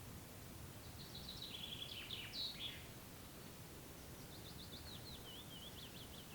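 A songbird singing two short phrases: a jumbled warble about a second in, then a quick run of repeated high notes from about four seconds in. Under it, a faint steady background hiss.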